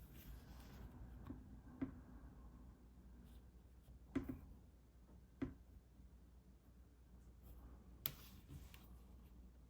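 Faint scratching of a drawing tool on paper, with a few short taps or clicks.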